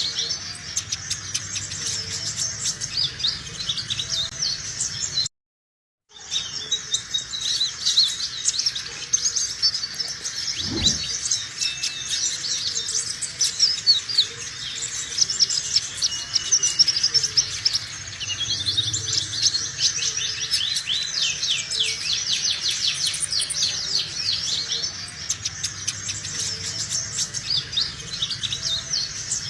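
Sunbird singing a fast, high, continuous twittering song of rapid chirps and trills, broken by a short gap about five seconds in.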